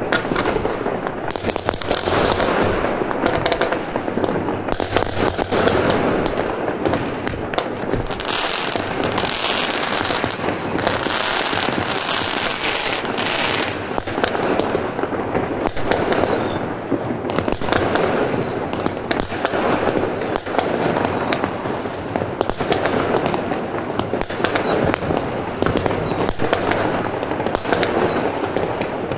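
Many fireworks going off at once: a continuous, dense barrage of bangs and crackling, with a stretch of louder hissing crackle for a few seconds in the middle.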